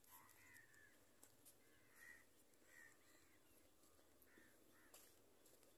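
Near silence, with faint short bird calls in the distance, roughly one a second.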